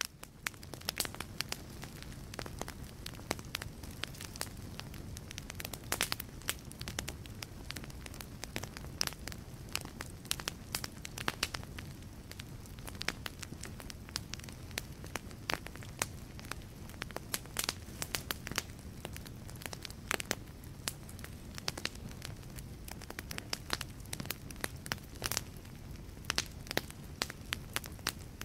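Wood fire burning in a fireplace: a steady low rush of flame with frequent, irregular sharp pops and snaps from the crackling logs.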